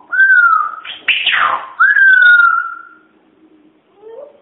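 African grey parrot whistling and making beatbox-style sounds: two drawn-out whistles, each rising quickly and then sliding slowly down, with a loud hissing, falling burst between them about a second in.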